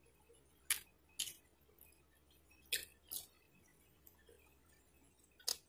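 Faint mouth sounds of someone eating a slice of pizza close to the microphone: five short, sharp smacks and bites, in two pairs about half a second apart and one more near the end.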